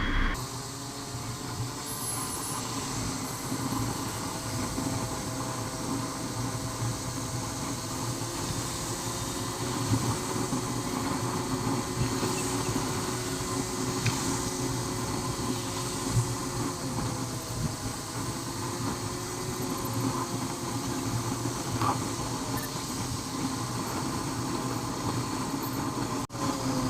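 Motorcycle engine running while riding, with road and wind noise; its pitch drifts slowly up and down with speed.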